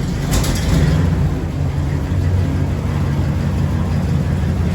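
1962 Cadillac's 390 V8 running steadily, freshly cold-started after sitting through the winter, with a brief rise in loudness just under a second in.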